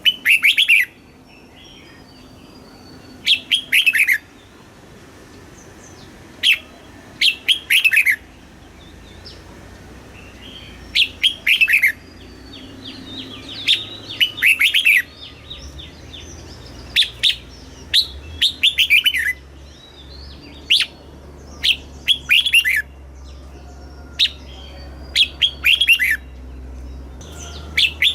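Red-whiskered bulbul singing: short phrases of quick, falling whistled notes, repeated every second or two with brief pauses between them.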